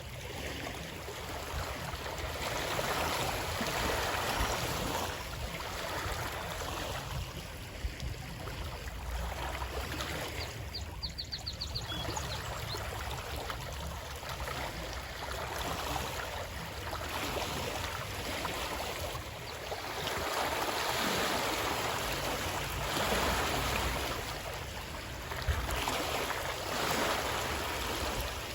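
Flowing water rushing steadily, swelling and easing every few seconds over a low rumble. A short run of quick high ticks comes about eleven seconds in.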